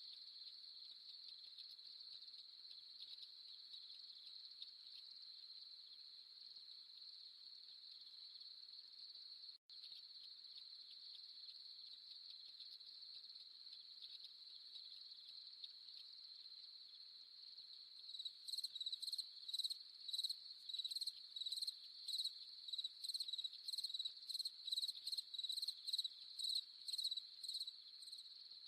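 Steady high-pitched trill of a night-time chorus of crickets, cutting out for an instant about ten seconds in. From about eighteen seconds in, a louder, closer insect chirps in short pulses, about two a second, until near the end.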